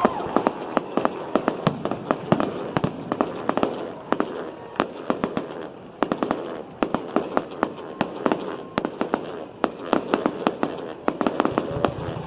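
Fireworks crackling: a dense, uneven run of sharp pops, several a second.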